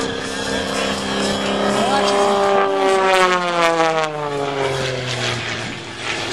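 MX-2 aerobatic plane's Lycoming IO-540 piston engine running as it flies through a manoeuvre, its note falling steadily in pitch from about two seconds in.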